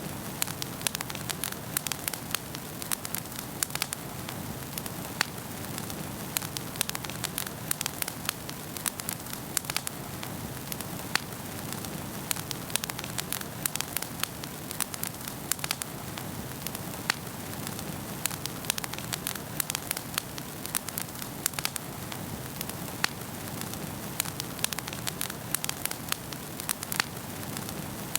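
Wood fire burning in a fireplace, with a steady hiss and many sharp, irregular crackles and pops.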